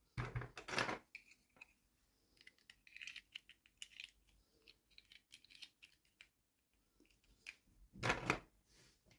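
Toy packaging being handled and opened: a short rustle at the start and another near the end, with many light clicks and taps of small toy pieces in between.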